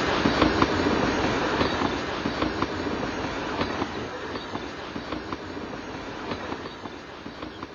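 A train running on rails, a steady rumble with scattered sharp clicks of wheels over rail joints, fading steadily as it draws away.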